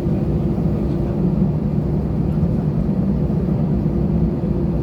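Cabin noise inside an Airbus A320 in flight: the engines and airflow make a steady low rumble, with a faint steady hum above it.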